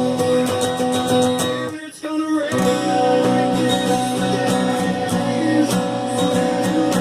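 Giannini Performance guitar playing chords in a rock song, with singing. The music drops out briefly about two seconds in.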